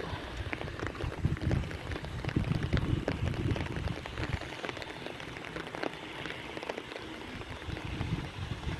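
Rain falling, with many separate drop ticks close by over a steady hiss and a low rumble underneath.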